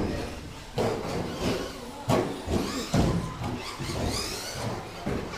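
RC short course trucks racing: a high motor whine that rises and falls, over tyre noise, with several sharp knocks and thumps from the trucks.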